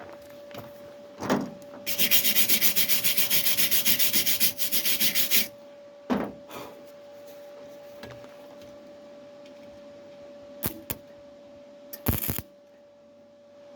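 Rapid back-and-forth hand sanding strokes, about eight a second for three to four seconds, followed by a few separate knocks. A faint steady hum runs underneath.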